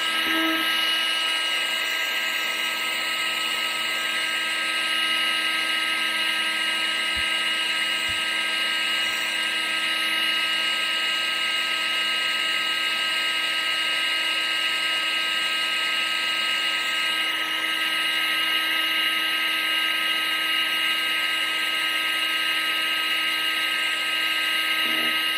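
Vacuum cleaner running steadily: a high motor whine over a constant rush of air, unchanging throughout.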